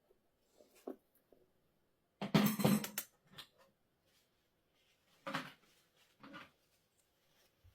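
Metal hand tools clattering and scraping against the scooter wheel while the tyre is worked off the rim. A longer clatter comes about two seconds in, then two shorter ones a second apart, with a few light knocks between.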